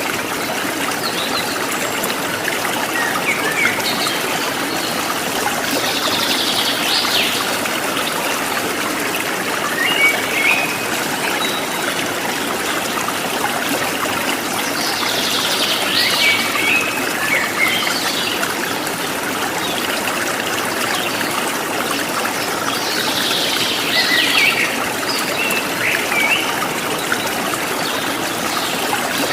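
Running water trickling steadily, with birds chirping in short bursts every few seconds over it.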